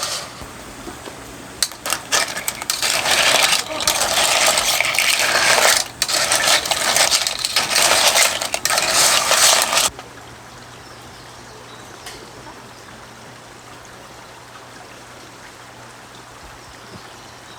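Clams in a hot camping pan: shells clattering against the metal over a loud crackling sizzle. It stops abruptly about ten seconds in, leaving a faint steady background hiss.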